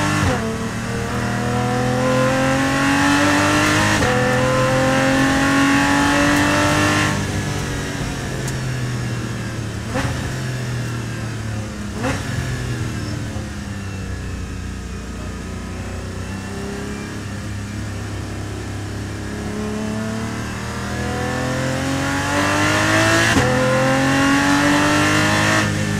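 Porsche 718 Cayman GT4's naturally aspirated flat-six heard from inside the cabin under hard acceleration on track. The revs climb, break at an upshift about four seconds in and climb again, then fall away as the driver lifts off, with a couple of sharp clicks. Midway the revs climb again through another upshift and drop once more near the end.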